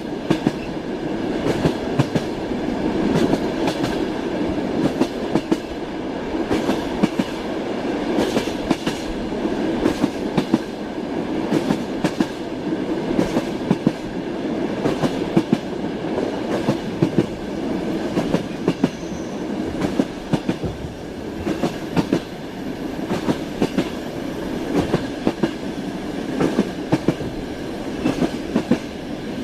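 Train wheels clattering over rail joints: a clickety-clack of repeated sharp clicks, often in small groups, over a steady rolling rumble.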